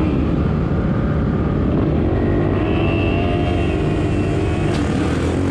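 Suzuki RM-Z450 four-stroke single-cylinder dirt bike engine running at a fairly steady speed, with heavy wind noise on the microphone.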